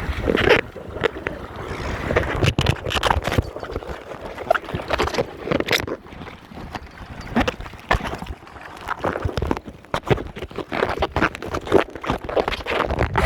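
Water slapping and splashing against the hull of a Topper sailing dinghy under way, in irregular knocks and splashes several times a second.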